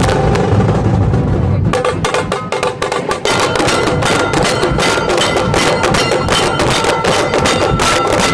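Nashik dhol-tasha drumming: after a low rumble of wind on the microphone, rapid drum strokes start about two seconds in, and about a second later a steady high piping tone is held over them.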